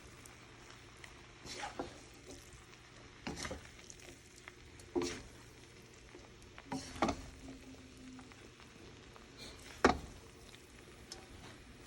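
Stir-frying in a pan: a utensil knocks and scrapes against the pan every second or two over a faint sizzle.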